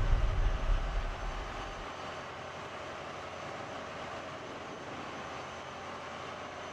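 Background music fading out over the first two seconds, leaving the steady, even noise of a vehicle running.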